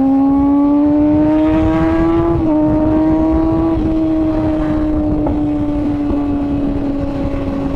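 Kawasaki ZX-6R inline-four sportbike engine pulling up through the revs, then an upshift about two seconds in drops the pitch, after which it runs on at a steady, slowly easing speed. Wind rumble on the microphone runs underneath.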